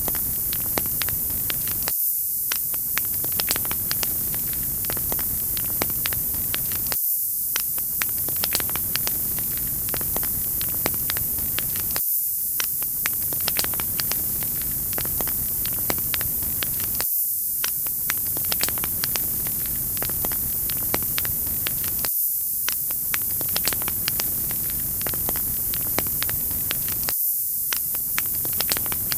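Wood fire crackling with many sharp pops over a steady hiss. The pattern repeats about every five seconds, marked by a brief dip in the lower sound each time.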